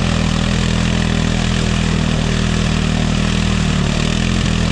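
ATV engine running steadily at a constant pitch, loud and close.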